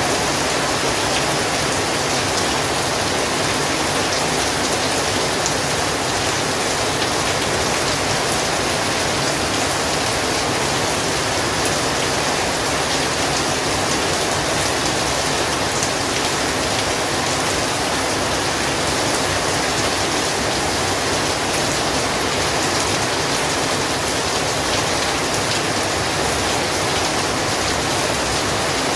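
Heavy rain falling steadily, a dense even hiss of drops hitting surfaces, with fine individual drop ticks through it.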